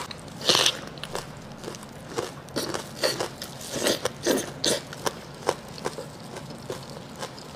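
Close-up eating sounds: biting into and chewing a braised pork intestine threaded with a scallion stalk, with irregular short wet smacks and crunchy clicks. The loudest bites come about half a second in and again around four to five seconds.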